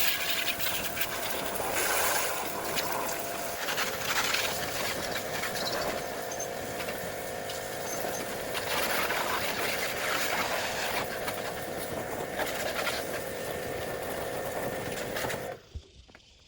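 A machine running steadily with a loud hiss and a wavering hum, cutting off abruptly near the end.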